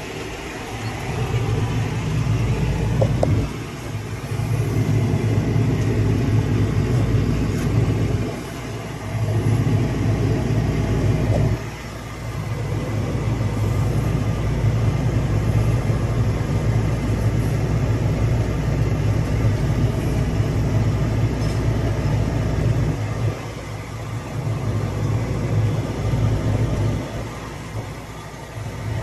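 Tractor engine running under load while pulling a harrow, a steady low rumble that dips briefly a few times.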